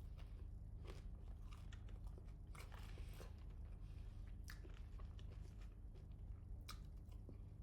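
A person chewing food close to the microphone, with irregular crunchy bites and crackles every second or two.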